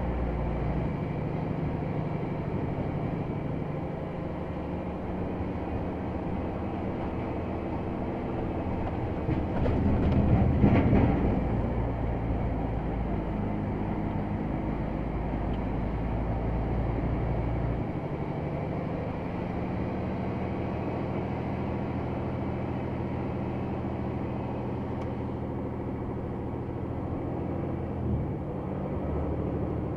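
Heavy Scania XT G500 truck's diesel engine running steadily under load while driving. There is a louder surge of noise about a third of the way through, and the engine note changes a little past halfway.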